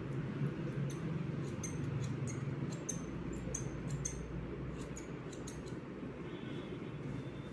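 Hairdresser's scissors snipping through hair: a quick run of about fifteen short, crisp snips, starting about a second in and stopping near the six-second mark, over a steady low background hum.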